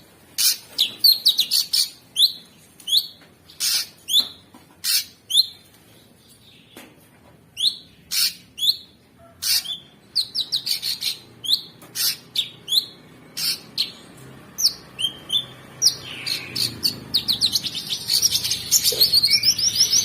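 Cucak sungkok singing: a busy string of short, sharp chirps and whistles that sweep downward, ending in a fast trill in the last few seconds.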